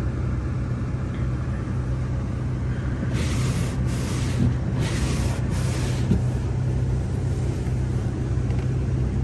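Volkswagen Passat R-Line's engine idling with a steady low hum. About three seconds in come four short hissing swishes.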